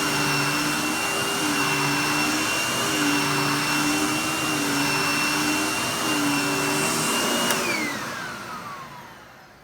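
Vacuum cleaner running on carpet, its hum wavering every second or so as it is pushed quickly back and forth. About seven and a half seconds in it is switched off and the motor whine falls away as it winds down.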